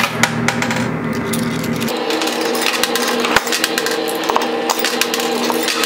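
Quarters clinking and dropping in a coin pusher machine: many quick metallic clicks over a steady hum of arcade machines, whose low part cuts out about two seconds in.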